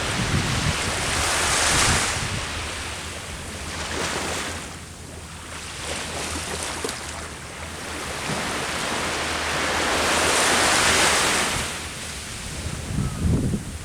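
Ocean surf breaking on the shore after a typhoon, its hiss swelling and fading as two waves come in, about two seconds in and again around ten seconds. Low wind buffeting on the microphone at the start and near the end.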